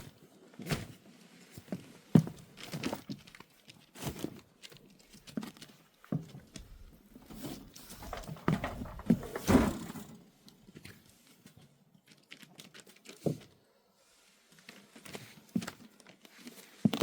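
Irregular handling noises: knocks, rustling and light clatter of things being moved about, busiest around the middle, with a quiet stretch a few seconds later.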